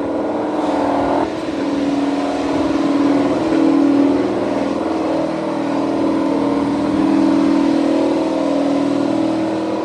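An engine running steadily with a droning hum that swells a little and eases again.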